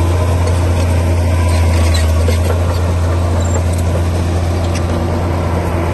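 Bulldozer's diesel engine running steadily under load, a deep even drone, with scattered sharp clicks over it.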